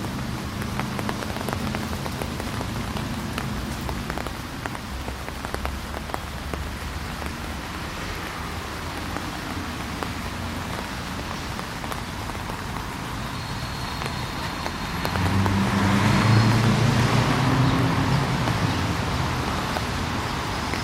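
Drizzling rain pattering, with many small raindrop ticks, over a low hum of traffic; a car goes by with a louder swell about three quarters of the way through.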